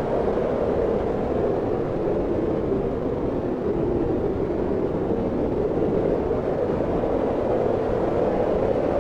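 Steady wind blowing, a low, even rushing that swells and eases slowly.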